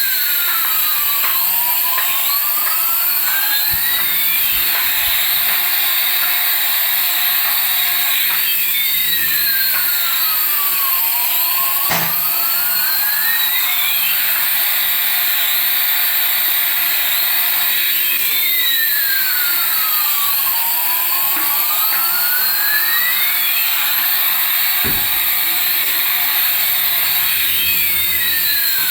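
Electronic toy sound effect from a small speaker: a steady high jet-like hiss, over which a tone slides down and back up again about every nine seconds. One sharp click comes about twelve seconds in.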